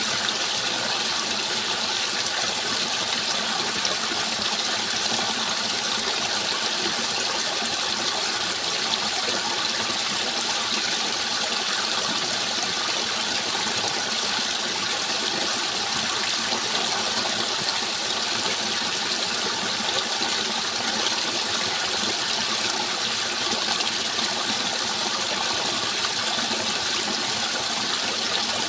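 Steady rushing of flowing water, an even hiss without pauses or changes.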